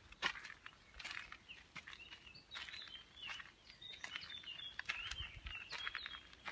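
Footsteps along an outdoor path, with a small bird singing a run of short, high chirping notes from about a second and a half in until near the end.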